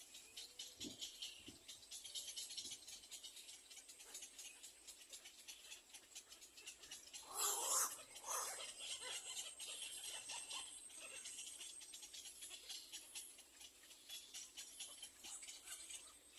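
Little egret nestlings calling at the nest, a few short calls early on and one louder, harsh squawk about seven seconds in, over a faint constant crackle.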